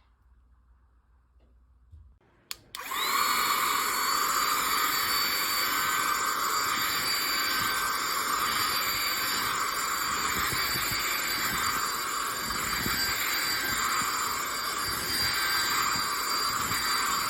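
Cordless stick vacuum cleaner switched on with a click about two and a half seconds in. Its motor spins up with a quick rising whine, then runs steadily with a high whine over the rush of air.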